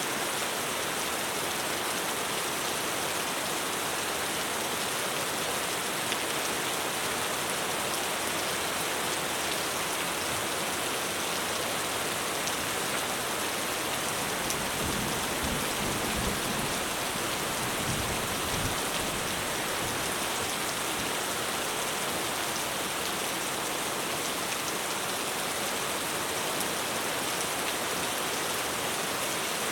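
Heavy rain falling steadily on a roof, a dense even hiss, with a low rumble of thunder about halfway through.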